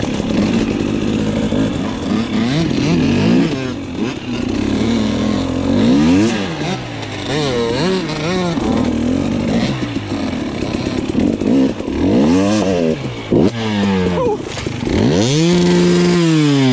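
Dirt bike engine revving up and down over and over as the rider blips and rolls the throttle climbing over rock, with a longer high rev near the end that then drops away.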